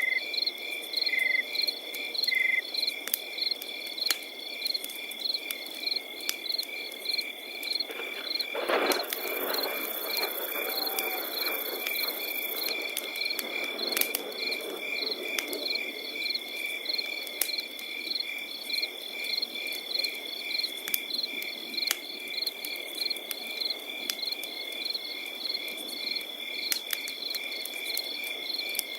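Crickets chirping: one steady high trill under rows of evenly repeated chirps, over a crackling campfire with scattered sharp pops. About nine seconds in, a louder rush of noise swells for a few seconds, then fades.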